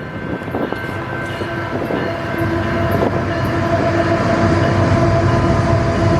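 Approaching diesel-hauled freight train: locomotive rumble growing steadily louder, with several steady tones held above it.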